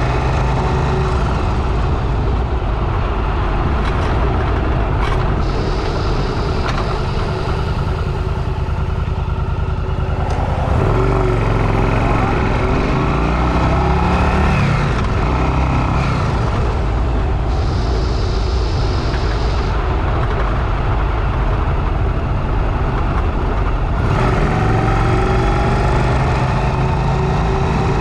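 Motorcycle engine running steadily while riding, its pitch rising and falling with the throttle.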